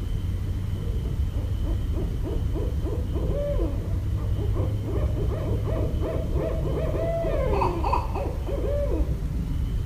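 Barred owls calling: a long run of arched hooting notes that come faster and overlap through the middle and latter part, as of more than one owl calling at once. A steady low rumble runs underneath.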